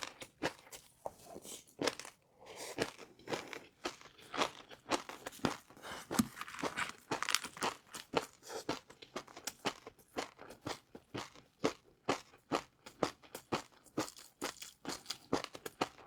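Close-miked crunching and chewing of crispy fried noodles, a rapid run of sharp crackles and crunches several times a second.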